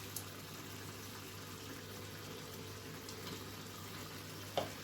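Chicken masala stew simmering in the pot, a low steady bubbling, with one short tap about four and a half seconds in.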